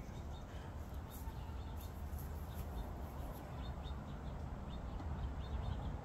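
Small birds chirping in short, quick calls over a steady low rumble, the chirps growing busier in the second half.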